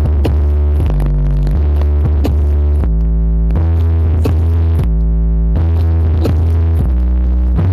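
Loud electronic dance music played through a large horeg sound system with subwoofers: deep held bass notes that change pitch every second or so, under sharp beats.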